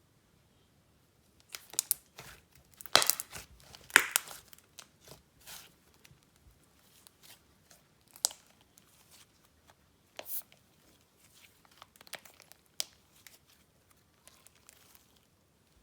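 Slime being worked and mixed by hand, giving irregular crinkly crackles and pops, loudest and densest about three to four seconds in and sparser afterwards.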